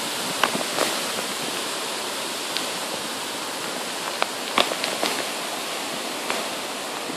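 Rain falling steadily on tree foliage, an even hiss with a few sharp ticks scattered through it.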